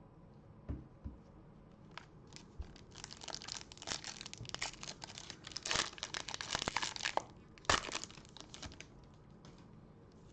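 Plastic wrapper of a Bowman baseball card pack being torn open and crinkled, in a run of crackly rustles, after a couple of soft knocks about a second in.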